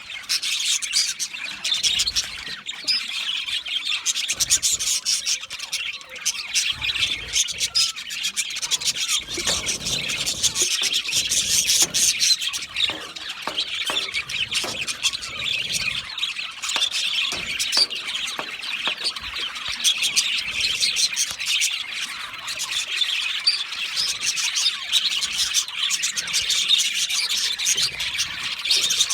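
A flock of budgerigars chirping and chattering together without a break, many high chirps and squawks overlapping, with scattered soft low thumps.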